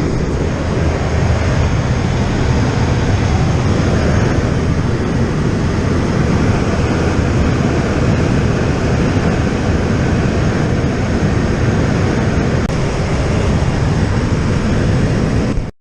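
Loud, steady noise of a PAC 750XL in flight, its Pratt & Whitney PT6 turboprop running with the rush of air around the aircraft; it cuts off abruptly at the end.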